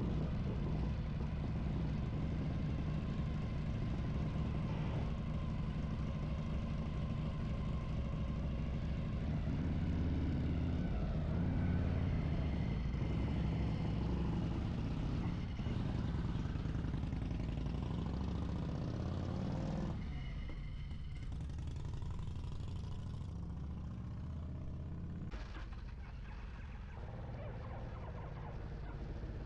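Harley-Davidson V-twin motorcycle engine running under way, a steady low exhaust note. About twenty seconds in it turns softer and a little quieter.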